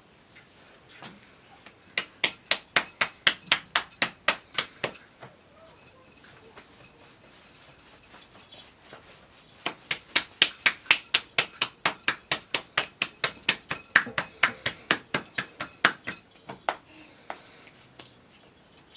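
Rapid, evenly spaced tapping strikes, about four to five a second, in two runs: a short one about two seconds in and a longer one from about ten to sixteen seconds.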